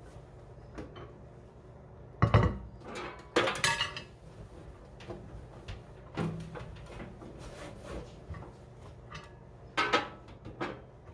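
Scattered clatter and sharp knocks of hard objects being handled while a countertop microwave is wiped out by hand, about five distinct knocks spread across the stretch, over a low steady hum.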